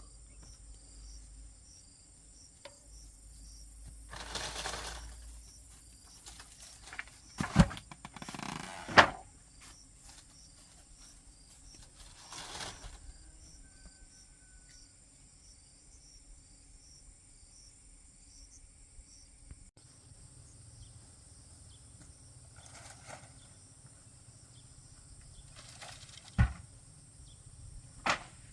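Insects chirping steadily, with a few sharp knocks and short rustling bursts over them.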